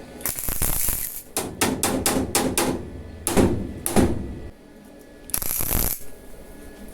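A run of sharp clicks and knocks, about six in quick succession in the middle, with short bursts of rustling, clattering noise near the start and near the end.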